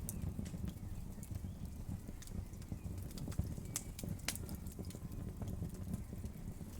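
Wood fire crackling, with irregular sharp pops and crackles over a steady low rumble of the flames.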